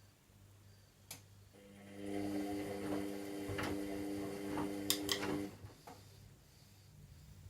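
Washing machine during the wash phase: a click about a second in, then its motor hums steadily for about four seconds, with a few sharp clicks, before stopping. This is typical of the drum turning briefly and pausing between turns.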